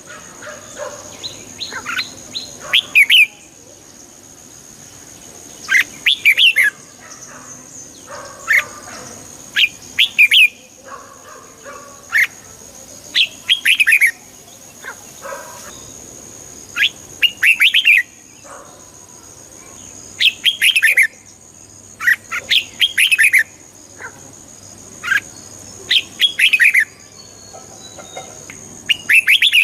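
Red-whiskered bulbul singing short, bright phrases of a few quick notes, repeated every one to two seconds. A faint steady high-pitched tone runs underneath.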